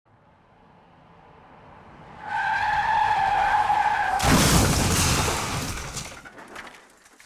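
Car skid-and-crash sound effect: a rising approach, then tyres screeching for about two seconds, then a sudden loud crash with shattering glass that fades out.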